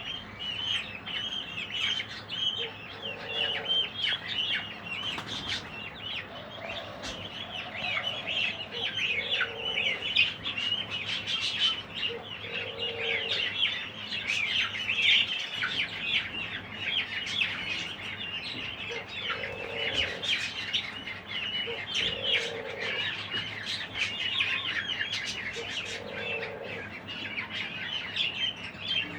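A flock of budgerigars chattering and chirping without pause. A lower call from another bird repeats every two to three seconds underneath.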